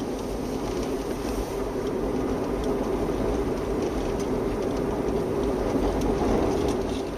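Car driving: a steady rumble of engine and road noise.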